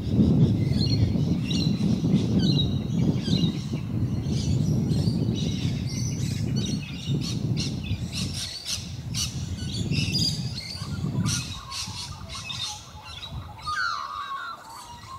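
Birds calling: many quick, high chirps and squawks in irregular bursts, with a lower, harsher call near the end. A low rumble runs underneath and drops away in the last few seconds.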